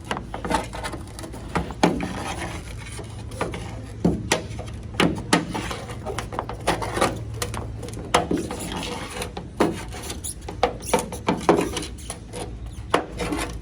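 Plastic bed rail cap of a 2020 Ford Super Duty being pried off with a hook tool: irregular clicks, knocks and scrapes as its clip tabs are worked loose.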